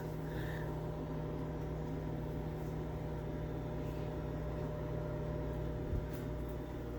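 Samsung ME19R7041FS microwave running its pizza cycle: a steady hum from the oven's magnetron and fan. There is a brief light knock about six seconds in.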